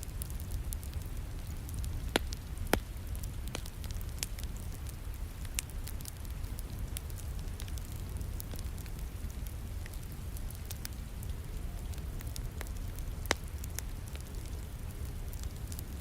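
Wood fire crackling in a fireplace, with scattered sharp pops, three of them louder, against a steady low rumble of rain.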